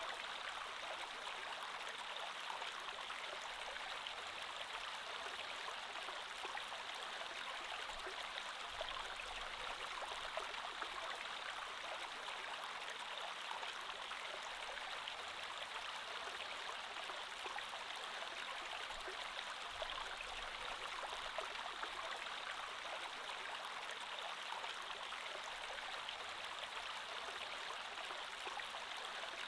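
Creek water flowing steadily over rocks, an even rushing and babbling that does not change.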